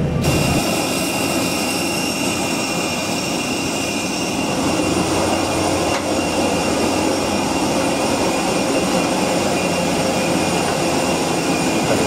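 Jet aircraft noise: a steady, loud roar overlaid with several high, steady whining tones.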